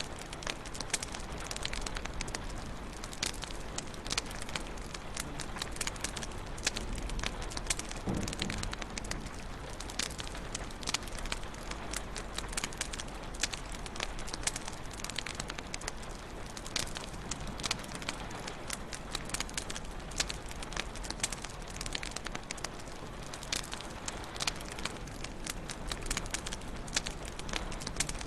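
Wood fire crackling in a fireplace: a steady soft rush of flames with frequent sharp pops and snaps at irregular intervals.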